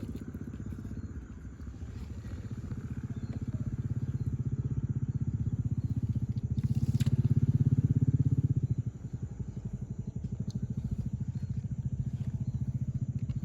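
A small engine running with a fast low pulsing beat. It grows louder to a peak about seven to eight seconds in, then drops off suddenly.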